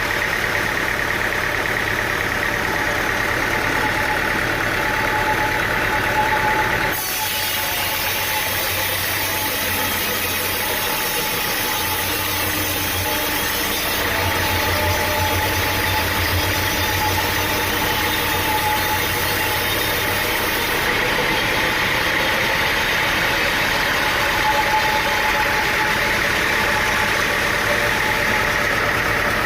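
An engine running steadily, with a continuous mechanical hum that changes character abruptly about seven seconds in.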